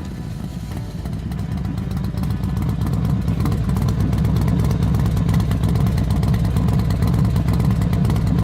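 Motorcycle engine running with a fast pulsing low note, growing louder over the first few seconds and then holding steady.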